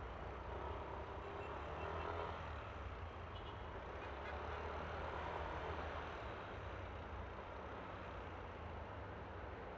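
Yamaha Aerox V3 scooter's single-cylinder engine running on the move, under steady wind and road noise that swells slightly a couple of times.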